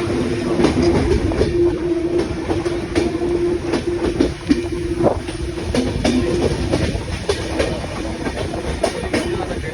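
Train running along the track: a steady rumble with a held hum and the clickety-clack of wheels over rail joints.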